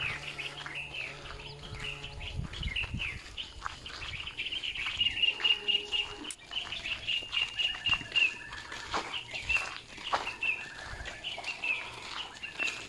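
Birds chirping, with a long run of quick, rapidly repeated high notes through the middle.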